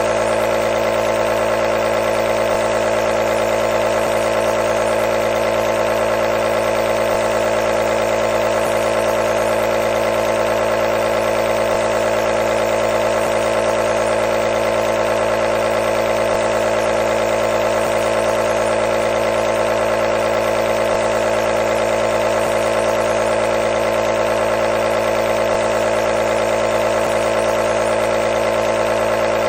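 Nebulizer running steadily: a constant buzzing hum, strongest in the mid range, with a hiss above it and no change in level.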